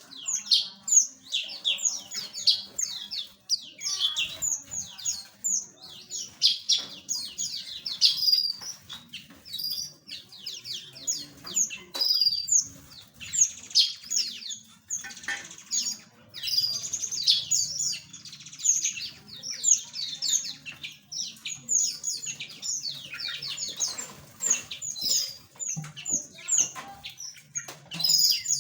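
A flock of small aviary birds chirping and twittering together: many short, high calls overlapping without pause.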